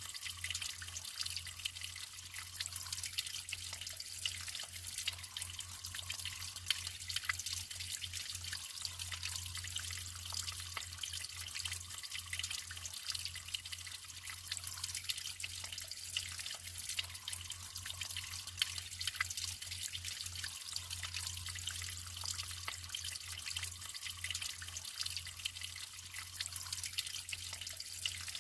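Natural running water trickling and splashing steadily, with many small drips and splashes over an even hiss.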